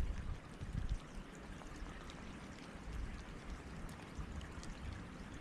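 Steady hiss of rain, with scattered drops ticking on the camera and irregular low rumbling thumps on the microphone. The loudest thump comes right at the start.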